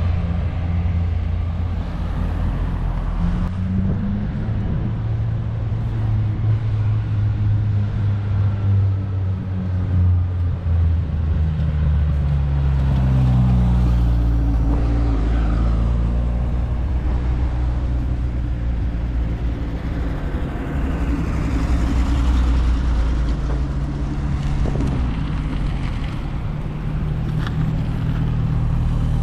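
Fiat 600 with a swapped-in 1.6-litre engine running on the road. Its steady drone shifts in pitch several times as engine speed changes, most noticeably about a dozen seconds in.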